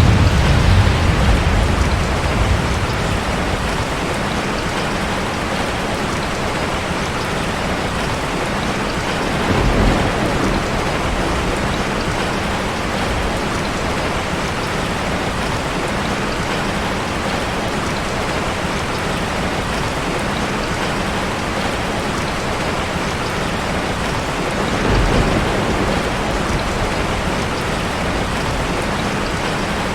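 Steady rushing of falling water, a waterfall ambience heard as an even hiss. Deep low rumbles swell up three times: at the start, about ten seconds in and about twenty-five seconds in.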